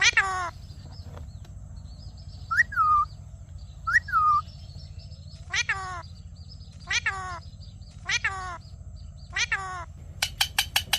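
Indian ringneck parrot calling: a string of about seven separate pitched calls, the later ones longer and sliding down in pitch, then a quick run of short chirps near the end.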